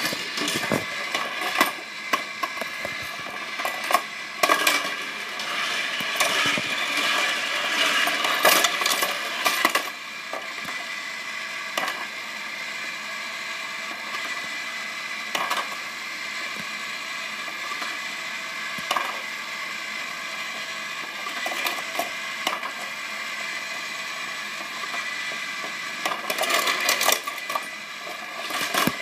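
Small die-cast Tomica toy cars clattering and clicking on the plastic ramps and track of a toy building, in busy flurries over a steady high hum.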